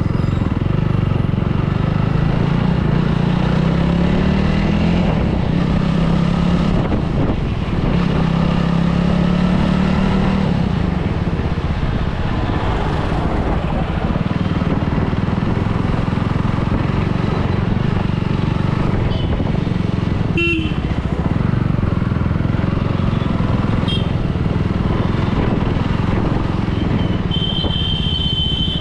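Motorcycle engine running at low speed through traffic, its pitch rising twice in the first ten seconds as the throttle opens. Vehicle horns honk: a short blast about twenty seconds in and a longer one near the end.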